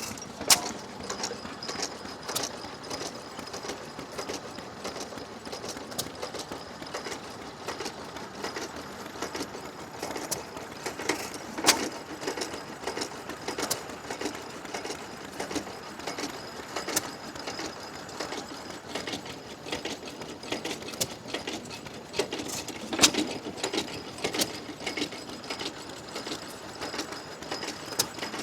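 6 horsepower Galloway Masterpiece stationary engine running: a steady clatter of sharp mechanical ticks, with now and then a louder bang.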